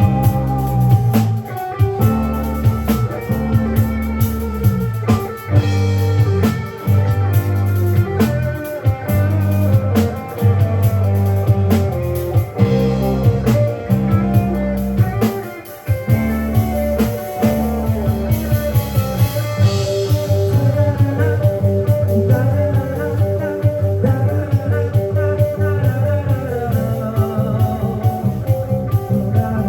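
Live rock band playing an instrumental passage: electric guitar, bass and drum kit, with no singing.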